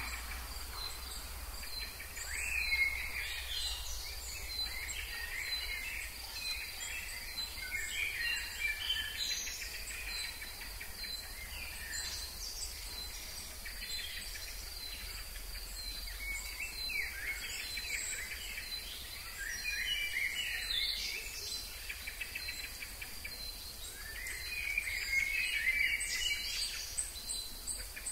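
Wild birds calling and singing in short bursts of chirps and whistles over a steady, high, pulsing insect chorus. The busiest bouts of song come about a third of the way in, in the middle, and near the end.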